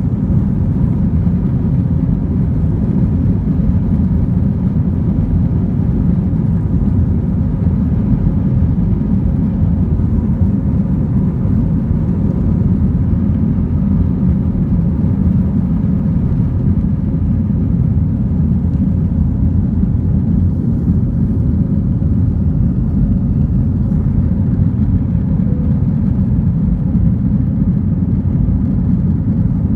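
Airbus A321 airliner in motion, its jet engines and airflow making a steady, loud low rumble with a faint steady hum above it.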